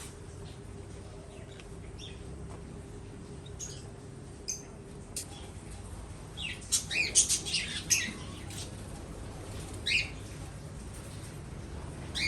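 Aviary birds calling with short, high chirps: a few scattered calls, then a flurry of chirps about halfway through and another call near the end, over a faint steady hum.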